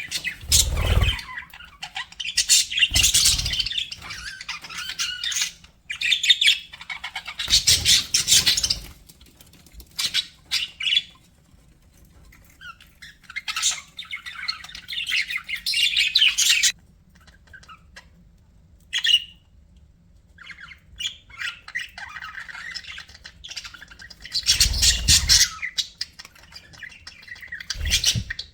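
Budgerigars chirping and warbling in busy bursts broken by short lulls, with a few low thumps mixed in.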